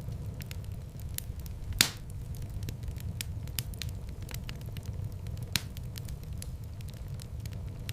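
Wood fire in a fireplace crackling: a steady low rush of flame under many small sharp crackles, with two louder pops, one about two seconds in and one about five and a half seconds in.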